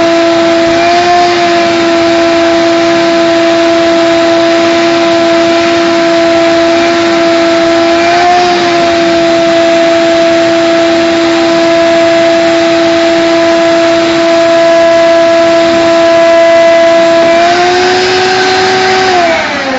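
Vacuum cleaner motor running with a steady, high hum, its pitch rising briefly twice and again near the end, then switched off and winding down with a falling whine.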